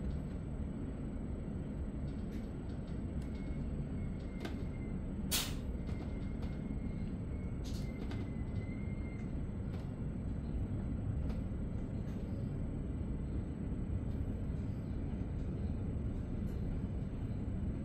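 Swiss Re 450 DPZ double-deck commuter train running, heard inside the passenger coach: a steady low rumble, with a few sharp clicks or knocks, the loudest about five seconds in, and a faint high whine between about three and nine seconds in.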